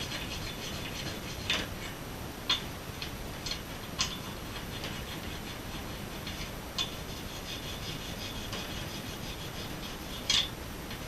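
Cleaning and handling metal engine parts: a steady rubbing or scrubbing with a handful of sharp metal clicks and clinks spread through, the loudest near the end.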